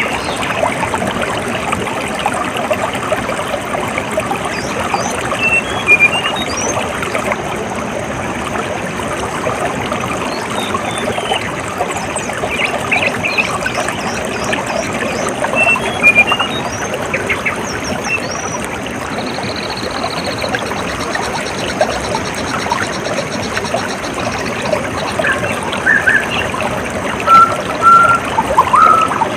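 Water trickling and flowing steadily, with small birds chirping now and then above it. A buzzing trill comes about two-thirds of the way through, and louder calls come near the end.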